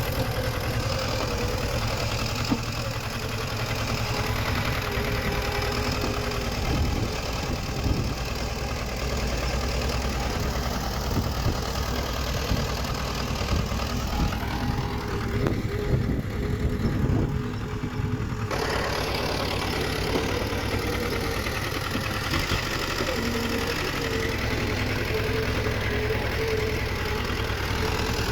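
Diesel engine of heavy earthmoving equipment running steadily, with scattered clanks and knocks through the middle.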